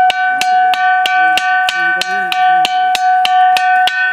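A ringing rock struck over and over, about three sharp strikes a second. It gives a clear, metallic, bell-like ring that holds a steady pitch between strikes.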